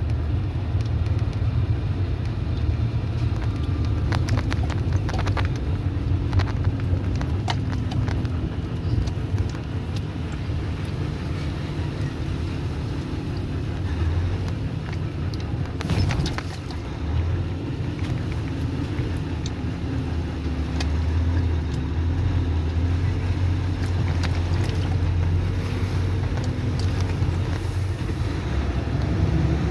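A motor vehicle running with a steady low engine rumble, with scattered knocks and rattles through it.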